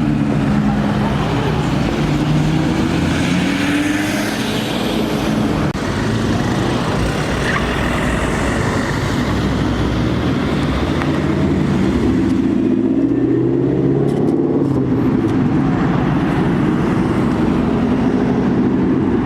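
Car engines running loudly in street traffic, with one engine rising in pitch as it accelerates a little past halfway through.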